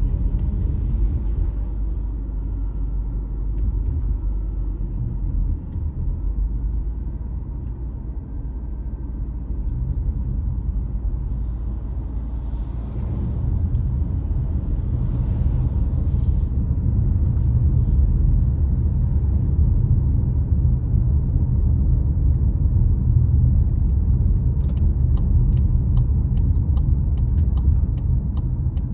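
Car driving on a road: a steady low rumble of tyres and engine that grows louder about halfway through. A quick run of faint ticks comes near the end.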